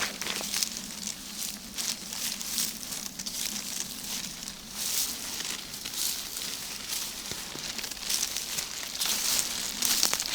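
Footsteps through forest undergrowth, with leaves and twigs rustling and crackling irregularly.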